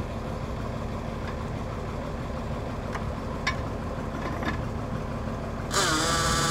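Engine idling with a steady low rumble and a few light clicks. Near the end, a louder, steady sound with several held tones cuts in abruptly.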